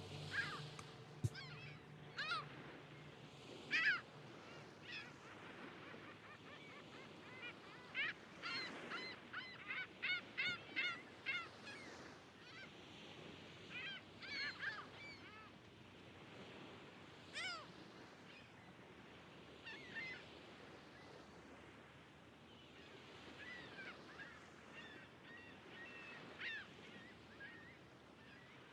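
Seagulls calling on and off: short squawking calls, with a quick series of about eight calls close together near the middle.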